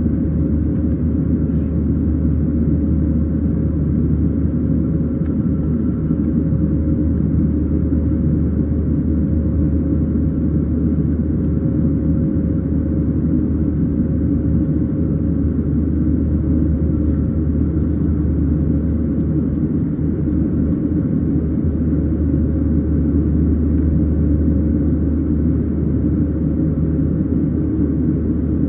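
Steady cabin roar of a Boeing 737-700 climbing after takeoff: its CFM56-7B engines and the airflow over the fuselage, a deep even rumble with a thin steady tone above it.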